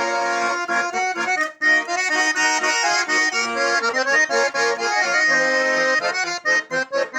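Russian garmon (button accordion) playing an instrumental passage of melody over chords, without singing, with a brief break about a second and a half in.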